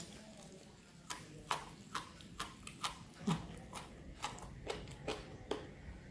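A raw yardlong bean bitten off with a sharp snap, then chewed with crisp crunches, about two to three a second.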